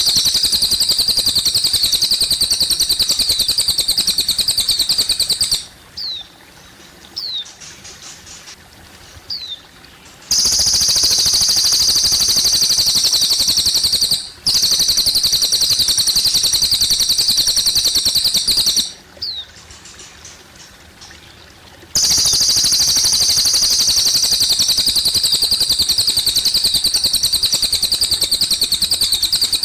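Cililin bird singing long, loud, rapid high trills, three phrases each lasting several seconds, with short downward chirps in the pauses between them. Trickling water sounds faintly behind the song.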